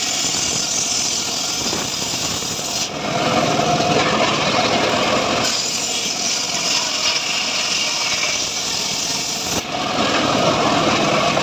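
Homemade engine-driven srekel saw cutting sengon (albizia) wood: a steady run of engine and sawing noise whose sound shifts every few seconds as the cut goes on.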